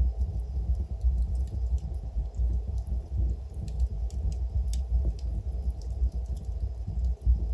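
Wood fire burning in a fireplace: a steady low rumble with scattered sharp crackles and pops from the logs, a few of them louder, near the middle.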